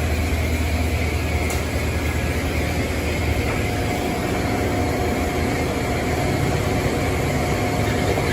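Steady machinery hum and hiss of car wash equipment running, with a low drone that eases slightly a few seconds in and a faint high steady tone over it.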